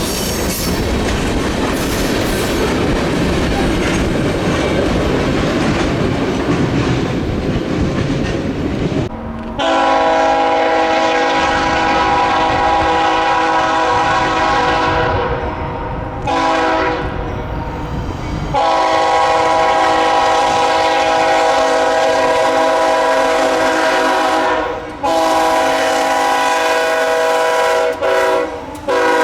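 CPKC train rolling by with a heavy rumble and wheel clatter, then, about nine seconds in, the locomotive's air horn sounding a series of blasts, several long and some short, each a chord of steady tones.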